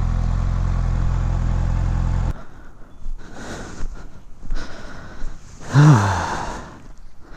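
Kawasaki Ninja ZX-6R inline-four engine idling steadily, then switched off abruptly a little over two seconds in. After it, faint scattered noises and a short falling voice-like sound near the end.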